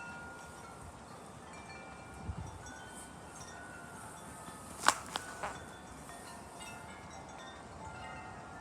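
Wind chimes ringing in the wind, scattered notes at several pitches overlapping. About five seconds in come three quick, sharp clacks, louder than the rest.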